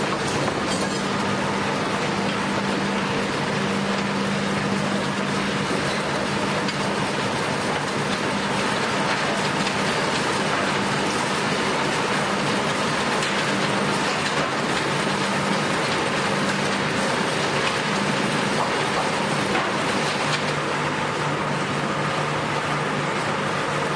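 Sawmill machinery running steadily, a constant noisy wash with a steady hum that drops slightly in pitch about 20 seconds in.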